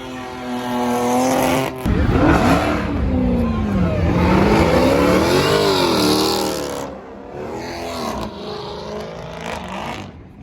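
Car engine revving hard, its pitch swooping up and down several times over a rushing hiss of tyre noise. The sound changes abruptly twice, as if cut between separate clips.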